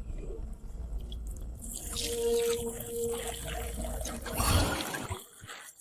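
Water being poured and splashing into a pot, swelling louder about four and a half seconds in.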